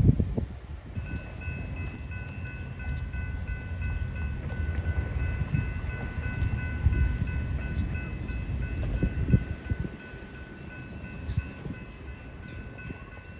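A passenger train rumbling through the station, with scattered clicks of wheels over the rails. About a second in, a steady ringing tone starts, pulsing several times a second.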